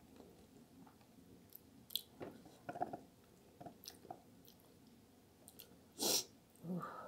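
Close-up chewing and wet mouth noises of a person eating saucy, cheesy eggplant parmigiana, with scattered small clicks from a metal fork working in a glass baking dish. A single louder, sharper noise comes about six seconds in.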